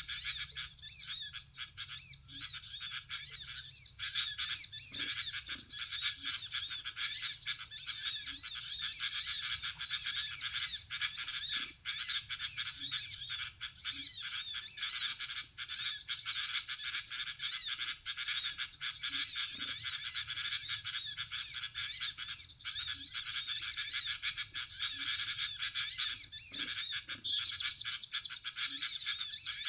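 A played-back 'suara ribut' bird-lure recording: many small birds chirping and twittering densely and without a break, used to call small birds in to glue traps. A steady trill joins in near the end.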